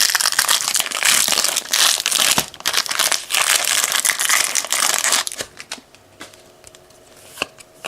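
A 2019 Bowman hobby pack's wrapper being torn open and crinkled, dense and loud for about five seconds, then dropping away to a few faint clicks as the cards are handled.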